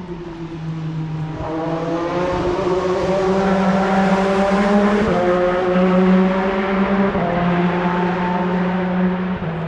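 Formula One car engine on the circuit, accelerating and changing up through the gears twice. It grows louder as it comes nearer, then eases off slightly.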